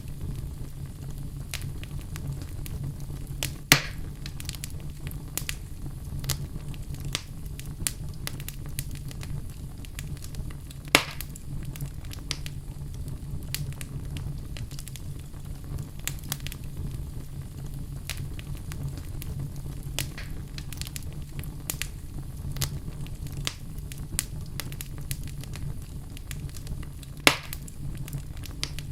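Fire burning in a fireplace, crackling continuously with many small clicks over a steady low rumble. Three louder sharp pops stand out: about four seconds in, about eleven seconds in, and near the end.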